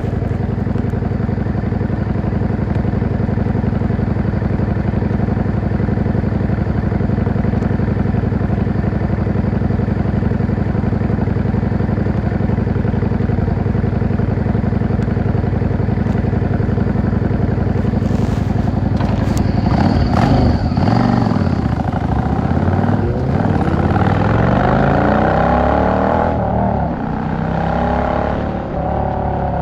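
Yamaha XVS650 V-Star's air-cooled V-twin engine heard from the rider's seat, running at a steady note for most of the time, then accelerating about two-thirds in, its pitch rising and dropping back at each of several gear changes.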